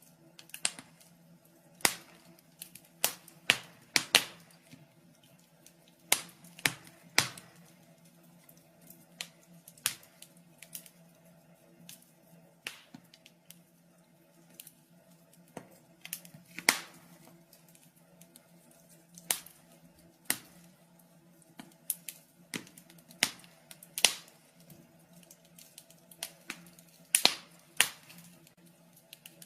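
Wood fire crackling in a fireplace: irregular sharp pops and snaps, some single, some in quick clusters, a few much louder than the rest, over a faint steady low hum.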